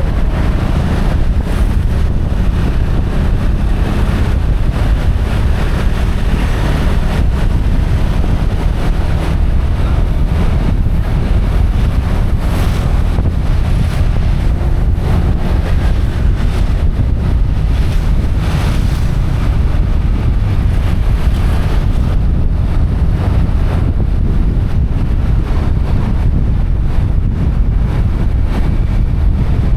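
Wind buffeting the microphone of a camera riding on a moving motorbike: a loud, steady low rumble of rushing air.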